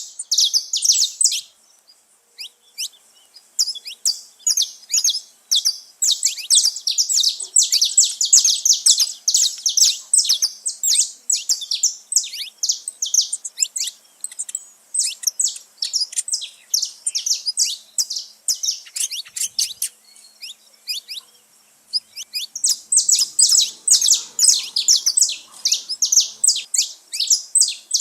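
Saffron finches (canário-da-terra) singing, long runs of quick, high chirping notes with short lulls about two seconds in and again around twenty seconds in.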